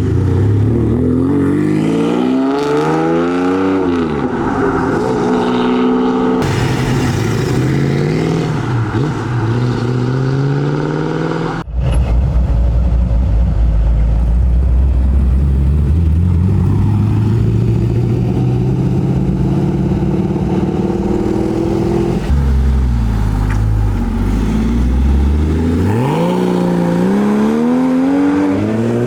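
Sports-car engines revving and accelerating away, one car after another. The pitch climbs and drops back with each rev or gear change, and the sound cuts abruptly to a different car three times, with a lower, slower-rising rumble through the middle stretch.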